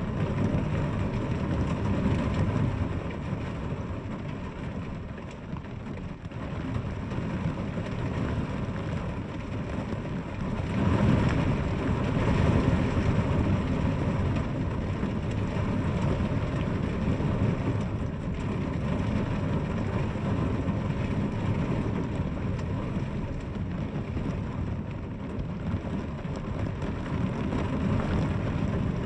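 Steady heavy rain falling, a dense even hiss with a deep rumbling body that swells for a few seconds about eleven seconds in.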